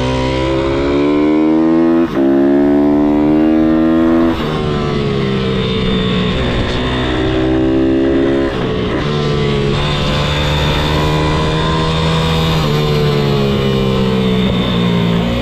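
MRF 160-R SM pit bike's single-cylinder engine running hard on track. The revs climb, break briefly about two seconds in as it shifts up, climb again, drop away about four seconds in, and then rise and fall a few more times.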